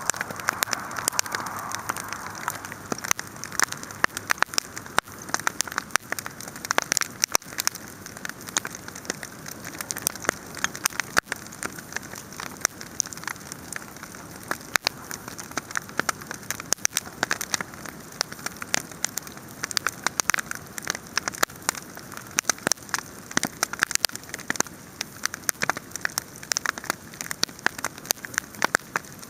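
Large wood fire crackling, with dense irregular sharp pops over a steady hiss; a softer hiss in the first couple of seconds fades out.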